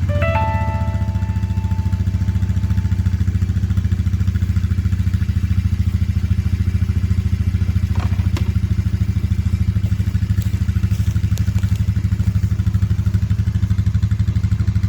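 Small engine running steadily with an even pulsing beat, just after its cold start. A brief high tone fades over the first few seconds.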